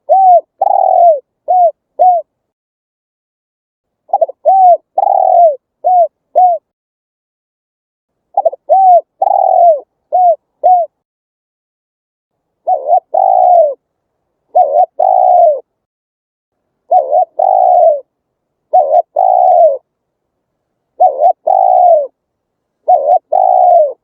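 Spotted dove cooing in repeated phrases of short, arched coos. The first phrases have about four notes each; from about halfway through come quicker two-note phrases roughly every two seconds.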